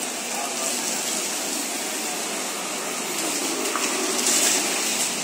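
Heavy rain pouring steadily, a dense even hiss that swells briefly about four seconds in.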